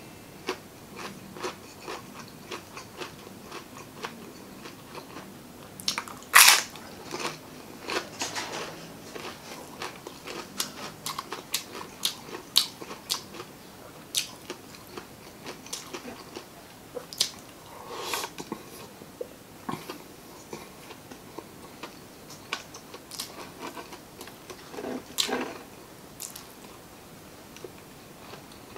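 Close-miked chewing and crunching of crispy fried chicken skin and adobo chicken gizzards and liver, a steady run of short crisp bites and chews. The loudest bite comes about six seconds in, with other strong ones about halfway through and near the end.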